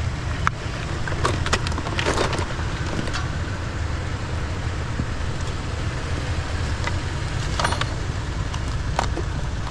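Steady low rumble of an idling vehicle engine, with a few light knocks and rustles of junk being handled.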